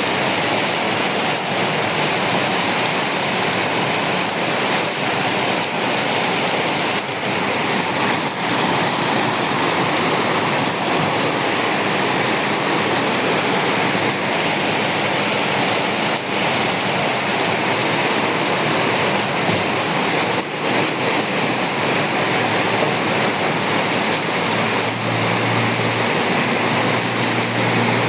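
Very heavy rain pouring down in a steady, dense hiss. A low steady hum joins near the end.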